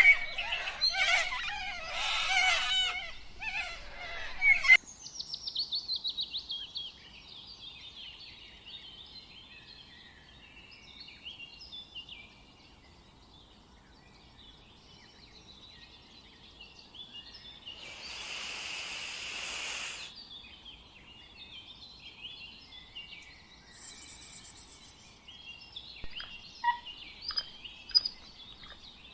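Birds chirping and calling. A loud, busy chatter cuts off suddenly about five seconds in, followed by a quick trill and then many quieter scattered calls, with a brief hiss midway.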